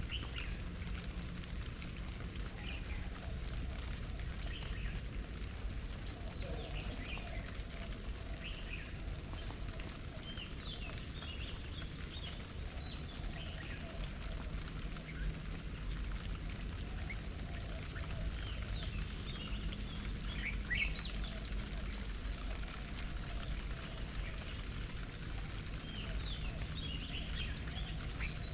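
Small birds chirping in short scattered clusters of high calls, over a steady low background rumble.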